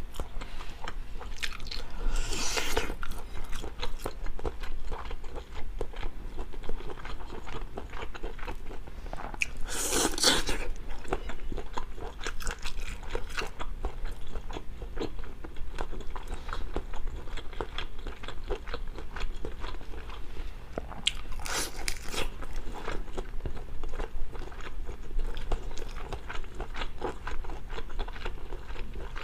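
Close-up eating sounds: a person biting and chewing crunchy food, with a constant patter of small wet clicks and three louder crunching bites spread across the stretch.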